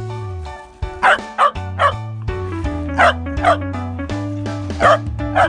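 Background music with a steady bass line, with dog barks in short clusters of two or three, about seven barks in all.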